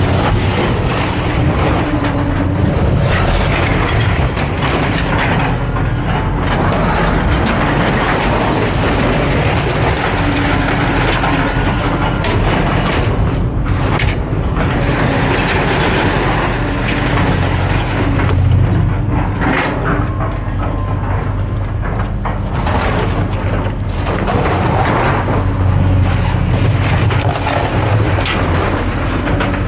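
Scrap metal clanking and scraping as heavy appliances are unloaded, with many sudden knocks over a steady low machine rumble.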